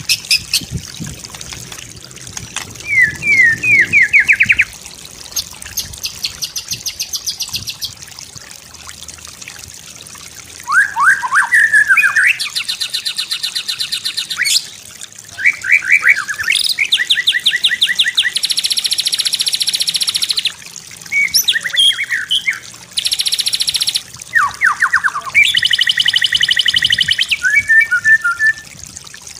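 White-rumped shama singing a varied song: phrases of rapid repeated notes, quick sweeping whistles and fast buzzy trills, separated by short pauses. A faint trickle of water runs underneath.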